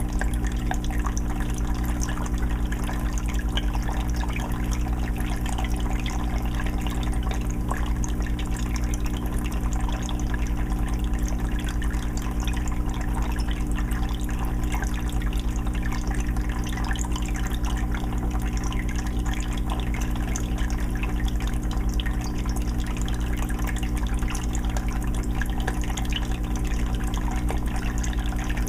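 Aquarium filter running, its water trickling and splashing into a 20-gallon fish tank in a steady stream of small drips, with a steady low hum underneath.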